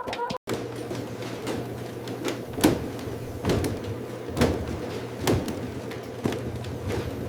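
Factory machinery running with a steady low hum and a regular knock repeating a little more than once a second.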